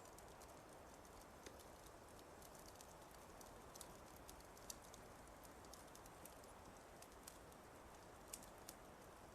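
Wood fire crackling faintly: irregular sharp pops and snaps over a low, steady hiss.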